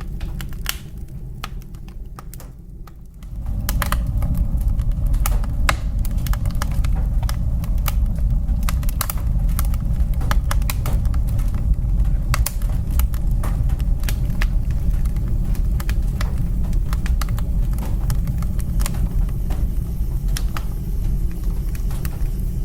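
Wood fire crackling in a fireplace: irregular sharp pops and crackles over a low rumble of the flames, which grows louder about three seconds in.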